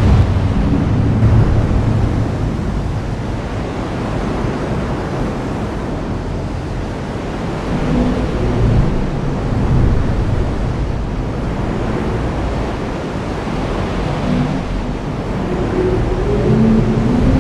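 Steady heavy rain, with low rumbles swelling up about halfway through and again near the end.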